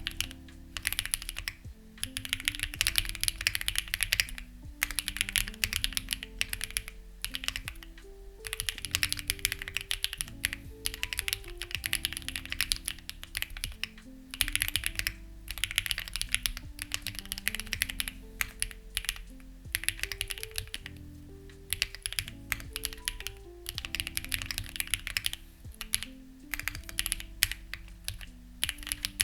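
Typing on a Lucky65 v2 mechanical keyboard with stock, unlubed HMX Ziwei switches, in quick runs of keystrokes with short pauses every few seconds. Soft background music plays underneath.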